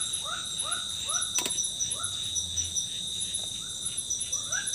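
Forest insects trilling steadily at several high pitches, with a short rising-and-falling call repeating about twice a second from another animal. A single sharp click about one and a half seconds in.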